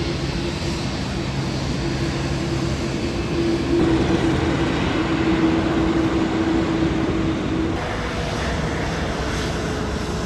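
Airliner jet engines rumbling steadily with a held hum, swelling louder midway and changing abruptly a little before the end.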